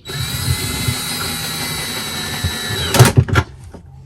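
A small electric motor, like a power tool's, runs steadily with a high whine for about three seconds and then stops suddenly. Two sharp knocks follow, about half a second apart.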